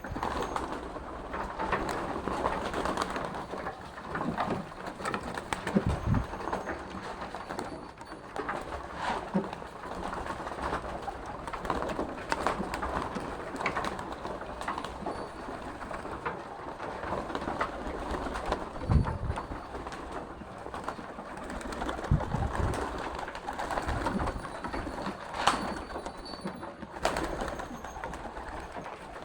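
Pigeons cooing continuously, with a few short low thumps.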